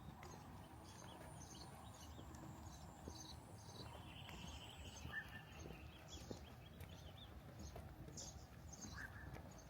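Faint, steady hiss of rain, with a few short bird chirps about five seconds in and again near the end.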